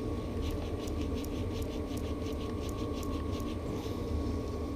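Wire wool rubbed quickly back and forth over a rusty steel bicycle part, scratching out rust. The rasping strokes come about five a second and stop about three and a half seconds in.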